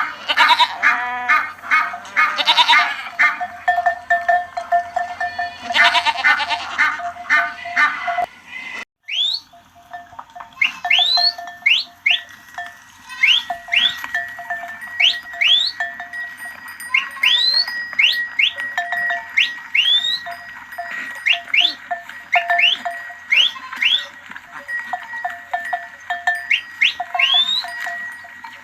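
Goats bleating, several calls close together. After a brief break about nine seconds in, a run of short rising chirps about once a second takes over, over steady ringing tones.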